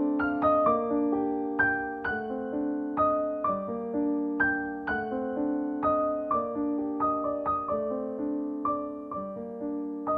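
Background piano music: soft, slow notes struck one after another, each ringing and fading before the next.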